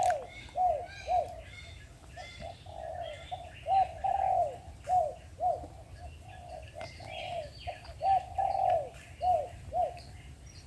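Spotted doves cooing: runs of short coos, each falling in pitch, repeated throughout, in the angry, challenging call that dove trappers prize. Other small birds chirp faintly and higher.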